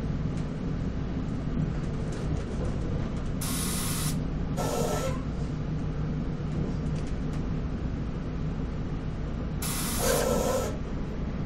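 NJ Transit commuter train running at speed, heard from inside the passenger car: a steady low rumble, with three short bursts of hiss about three and a half, four and a half and ten seconds in.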